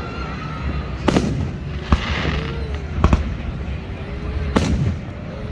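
Aerial fireworks going off: four sharp bangs spread over a few seconds, one followed by a brief crackle.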